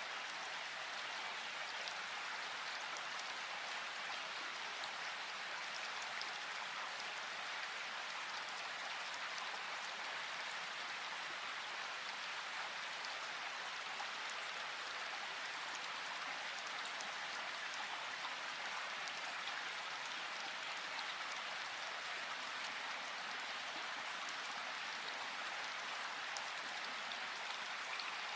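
Flowing river water: a steady, even rush with fine splashing, unchanging throughout.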